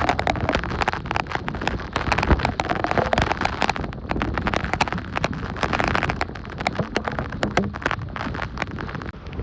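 Hurricane wind and rain buffeting the microphone: a dense, gusting rush broken by many sharp cracks and pops.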